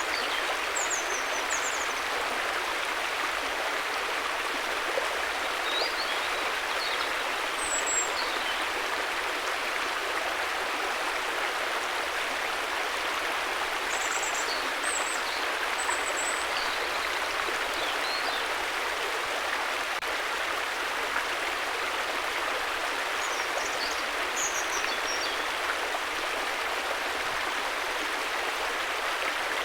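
River water flowing in a steady, even rush, with a few faint high chirps now and then.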